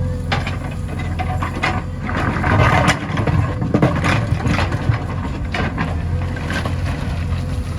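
JCB 3DX backhoe loader's diesel engine running steadily, with irregular knocks and clatter, mostly from about two to four seconds in.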